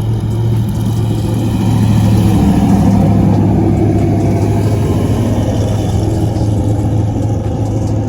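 A car's engine running and swelling louder about two to three seconds in as it accelerates, over a steady low hum.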